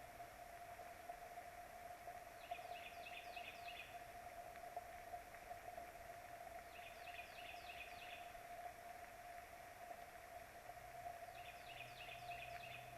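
A bird calling in short runs of five or six quick, high, falling notes, repeated about every four seconds, over a steady faint hum.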